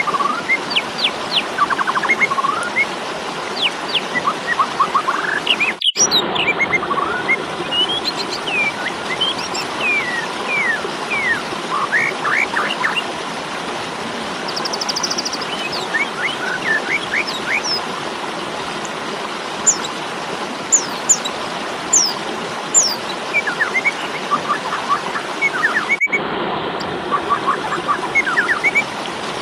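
Black-collared starling (jalak suren) giving agitated 'fighting' calls: rapid bursts of short chirps and whistled upward and downward sweeps over a steady background rush. The sound cuts out abruptly twice, about six seconds in and near the end, where the recording is spliced.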